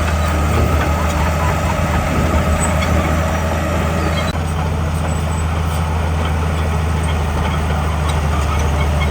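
Heavy diesel earthmoving machinery running steadily under load, a deep engine drone throughout, with an abrupt change in the sound about four seconds in.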